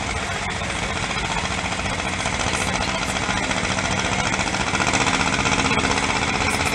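Antique tractor engine running hard with a rapid, even firing beat during a tractor pull, getting louder about five seconds in.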